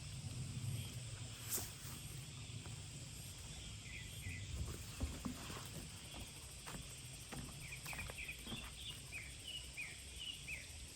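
A small bird chirping in short, quick notes: a couple about four seconds in, then a run of them near the end. Underneath is a steady low rumble with scattered faint clicks.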